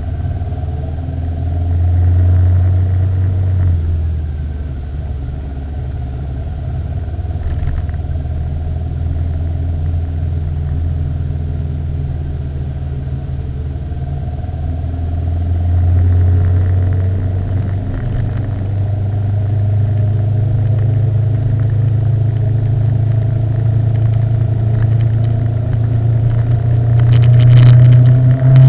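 Motorcycle engine running while riding, a steady low drone that swells a couple of times and climbs in pitch and loudness near the end.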